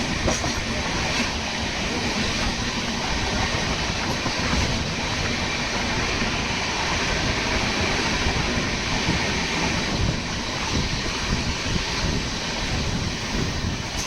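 Passenger express train running through a station at speed without stopping: a steady, unbroken noise of coaches and wheels on the rails, with some clickety-clack over the rail joints.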